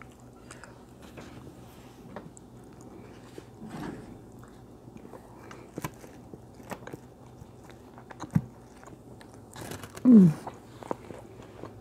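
A person chewing and biting food close to a lapel microphone, with scattered sharp clicks of a fork on the plate. A short falling voice sound comes about ten seconds in.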